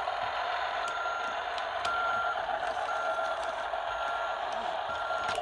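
Tonka Power Movers toy excavator sounding its electronic reversing beep: a steady mid-pitched beep about once a second, five times, over a steady hum.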